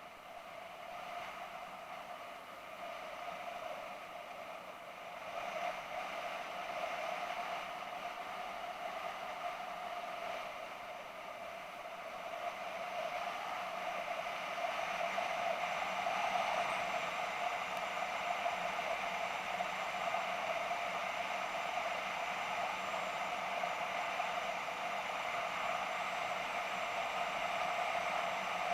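BMW F650GS motorcycle under way: a steady drone of engine and wind noise that grows louder over the first half, then holds.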